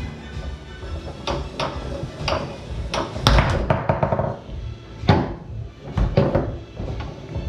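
Foosball rally on a Tornado table: sharp knocks of the ball struck by the foosmen and hitting the table's walls, with the rods clacking. There is a quick flurry of hits about three seconds in and more loud knocks around five and six seconds.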